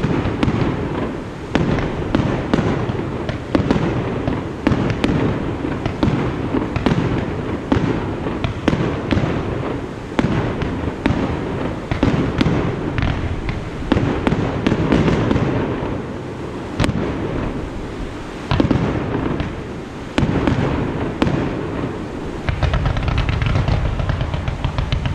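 Fireworks display: shells bursting one after another, about two bursts a second, with crackling between them.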